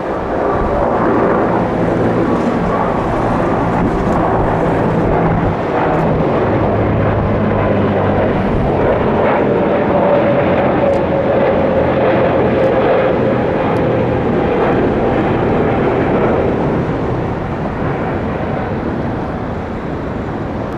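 Jet airliner passing, a loud steady engine rumble with a whining tone that slides down in pitch about halfway through, easing off near the end.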